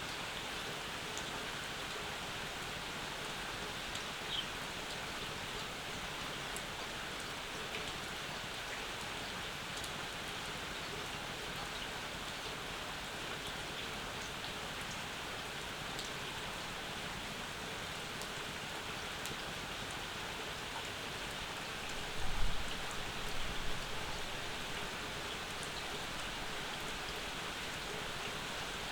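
Steady rain falling, with scattered individual drops ticking. A brief low rumble comes about two-thirds of the way through.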